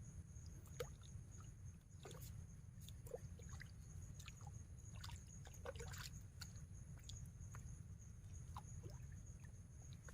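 Quiet mangrove forest ambience: a steady high insect trill runs throughout. Many small scattered clicks, ticks and water drips sound across it, over a low rumble.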